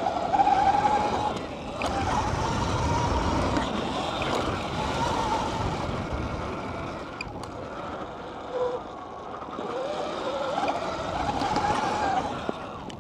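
Surron electric dirt bike ridden hard: its motor whine rises and falls with the throttle, dropping out briefly at times, over a steady rushing noise of wind and tyres.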